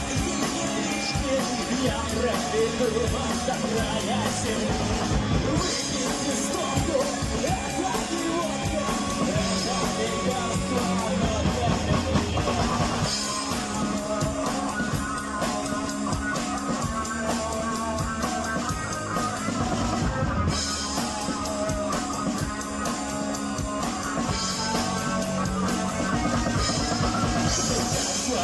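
Rock music with drum kit and guitar, and singing.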